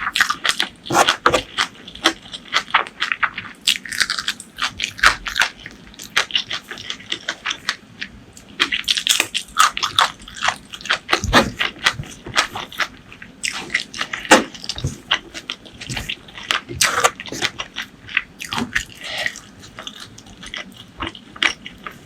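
Close-miked eating sounds: wet chewing, lip smacks and crunchy bites of spicy chicken and curry, coming as a rapid, irregular run of clicks and smacks.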